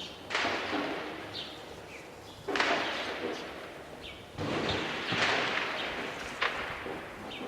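Explosions from shelling: three heavy blasts about two seconds apart, each starting suddenly and trailing off in a long echoing rumble, with a shorter, sharper crack near the end.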